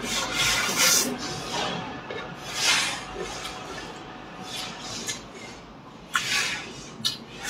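Close-up eating sounds: a person biting and chewing fried chicken, in irregular noisy bursts a second or two apart.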